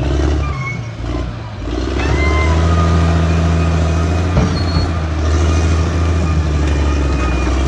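Caterpillar D6R XL bulldozer's diesel engine running steadily under load while pushing rocks. The engine note dips briefly about a second and a half in, and there is a single sharp knock a little past halfway.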